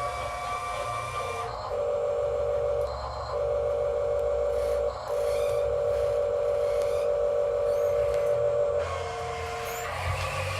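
Whine of a radio-controlled construction model's electric motors: a steady tone that jumps up and down in pitch several times as the machine works, with a low hum beneath.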